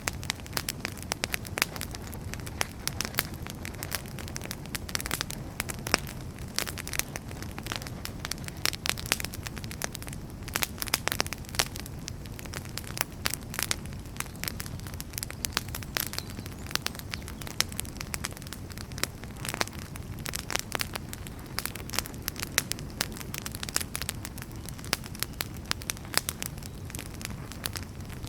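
Burning firewood in a fireplace crackling, with frequent irregular sharp pops over a low, steady rumble of flame.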